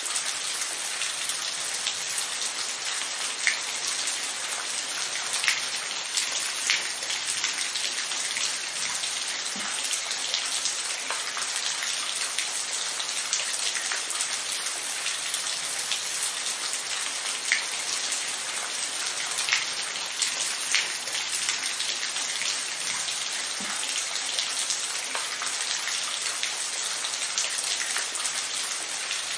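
Steady rain falling, a continuous hiss with individual drops ticking out every second or two.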